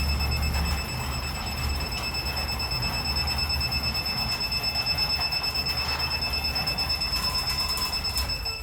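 DC Blue Advanced garage door motor running as it closes the door during a limit-programming run: a steady high-pitched whine over a low rumble from the drive and door.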